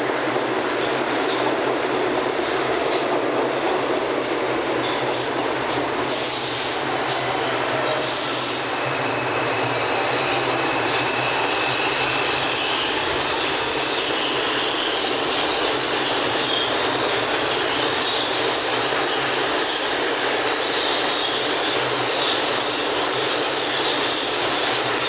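An R62 New York City subway train running through the station with a steady rumble of steel wheels on rail. From about ten seconds in it adds a faint high wheel squeal.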